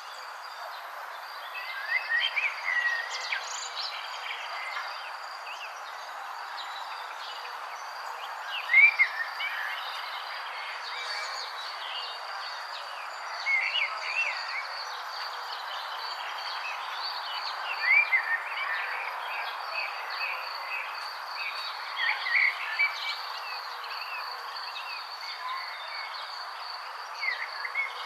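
Songbirds chirping in short, quick phrases every four or five seconds, the loudest about nine seconds in. Under them a steady high insect trill and a soft outdoor hiss run on.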